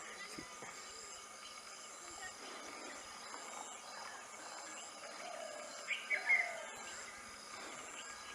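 Small bird calling outdoors: a few short chirps and slides about six seconds in, over a background of evenly repeated high-pitched notes.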